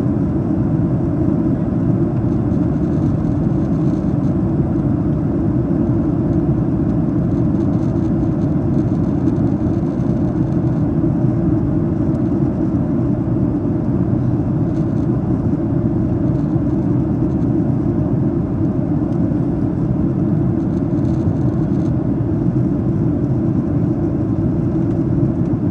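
Steady cabin noise inside a Boeing 737-800 descending: the even rush of airflow over the fuselage and the hum of its CFM56 engines, heaviest in the low range and unchanging throughout.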